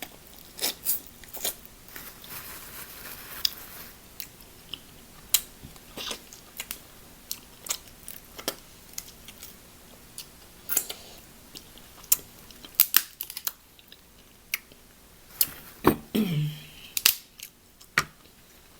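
Close-miked eating of seafood: wet chewing with many sharp clicks and snaps scattered throughout, and a short low hum near the end.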